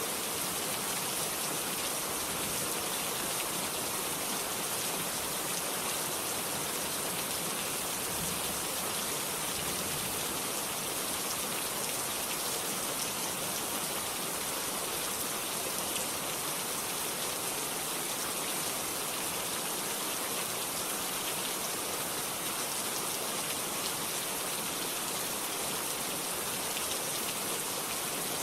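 Steady rainfall: an even hiss of rain falling on surfaces, with no let-up or change.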